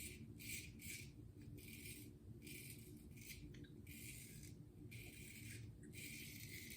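Razor scraping through lathered stubble in a run of short strokes, about one a second, each a brief rasping hiss.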